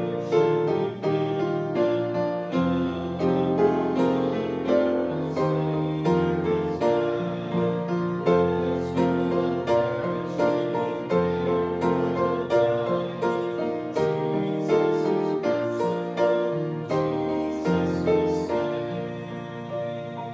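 Piano playing a hymn in steady struck chords with a walking bass line; the final chord rings out and fades near the end.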